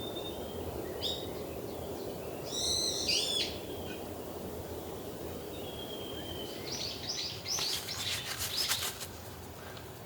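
Wild birds calling in a forest: a thin, level whistle, then two bursts of quick chirping notes, over a steady background hiss. A few sharp clicks come near the end.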